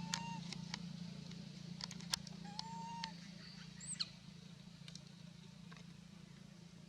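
A few short, arched animal calls, one near the start and one a little under three seconds in, with scattered sharp clicks and a brief high squeak about four seconds in, over a steady low hum.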